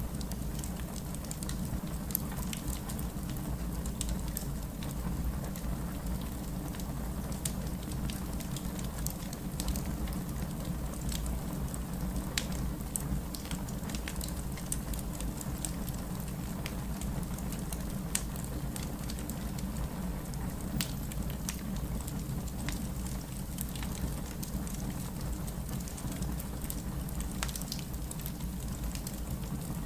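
Wood fire burning in a fireplace: a steady low rumble of flame with frequent scattered sharp crackles and pops.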